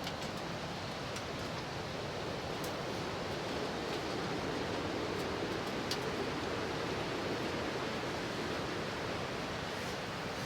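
Strong wind rushing against the tent, swelling for a few seconds in the middle, with a few faint ticks.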